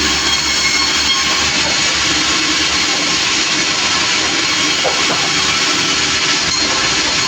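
Sawmill machinery running loudly and steadily, with a continuous rushing noise and a faint sustained hum.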